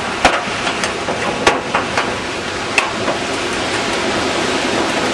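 Heavy storm rain and wind making a steady rushing noise, with about half a dozen sharp knocks in the first three seconds, as of objects striking nearby.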